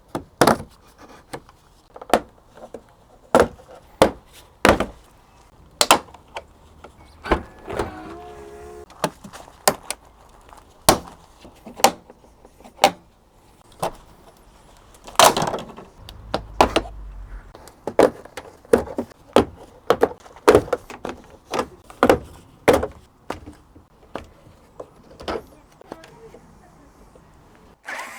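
Repeated sharp knocks and clicks at an uneven pace of about one a second, with a heavier knock and a short low rumble around the middle.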